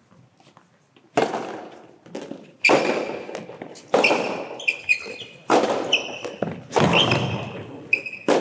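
Soft tennis rally: the soft rubber ball struck by rackets six times, about every second and a half, each hit echoing through an indoor hall, with short squeaks of shoes on the court floor between hits.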